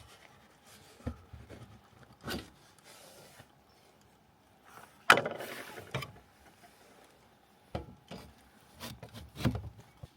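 Scattered knocks and rustling of things being handled, with one sharp, loud knock about five seconds in followed by a second of rustling, and a few more knocks near the end.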